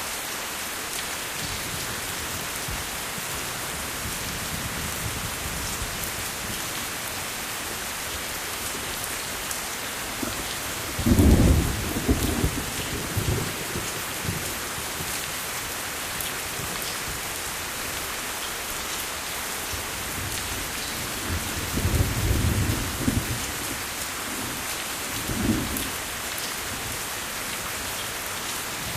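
Steady heavy rain falling, with rolls of thunder rumbling twice, near the middle and again near the end.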